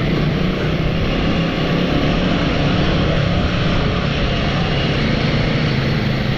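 Royal Enfield motorcycle riding along off-road, its engine running with a steady low drone under constant wind and road noise.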